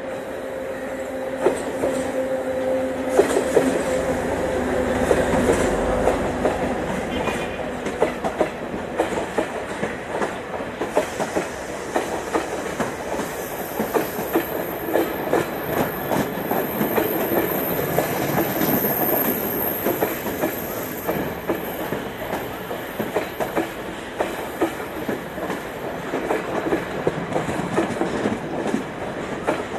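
Diesel multiple-unit passenger train passing close by. Its engine drones steadily as it approaches, then for most of the time its wheels clack in a quick, even rhythm over the rail joints as the coaches roll past.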